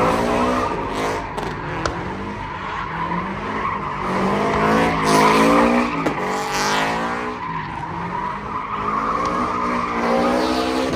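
Cars doing donuts: engines revving up and down again and again over the steady squeal of spinning tyres.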